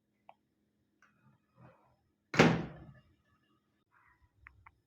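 Microwave oven door being opened: one sharp thunk about two and a half seconds in, with a few faint clicks before and after.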